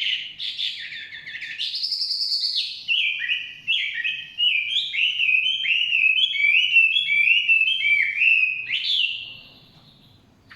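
Chinese hwamei singing a long, varied song of clear whistles. In the middle runs a series of repeated slurred notes, about two a second, and the song ends on a rising note about nine seconds in.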